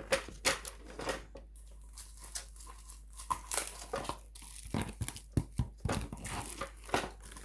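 Crinkling, rustling and irregular clicks of hands handling parts and casing of a sewing machine during disassembly.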